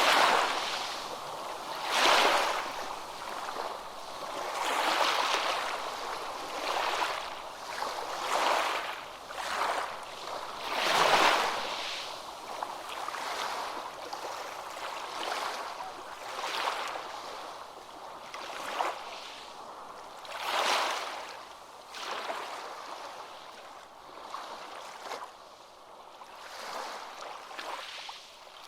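Ocean waves washing in, the surf noise rising and falling every two to three seconds, with the biggest surges about two and eleven seconds in.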